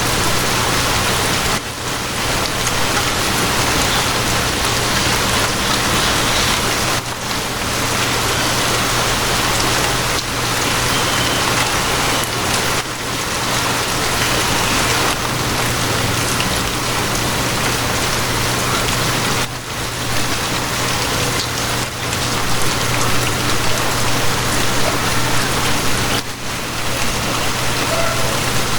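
Steady, heavy rain falling on surfaces, a dense even hiss with a low steady hum underneath. The level dips briefly a few times.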